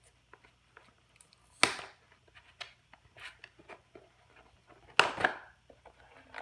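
Small plastic Beyblade parts being handled: scattered light clicks and taps, with two louder short scraping or rustling sounds, one about one and a half seconds in and one about five seconds in.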